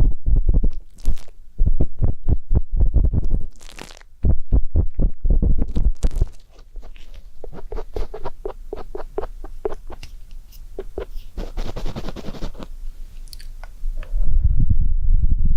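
Close-miked ear-cleaning on a microphone ear: rapid scraping and rubbing strokes of an ear-pick tip. From about six seconds in these give way to quieter, finer crackling scratches, and near the end there is a loud low rubbing.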